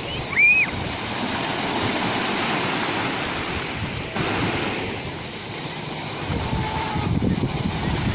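Sea waves washing, with wind buffeting the microphone; the surf swells and eases. A brief high chirp sounds about half a second in.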